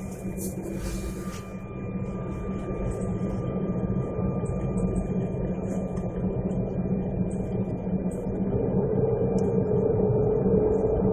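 Airliner engines heard from inside the cabin while the plane is on the ground before takeoff: a steady hum with thin whining tones. From a little past the middle, a louder tone comes in and edges upward as the engines spool up.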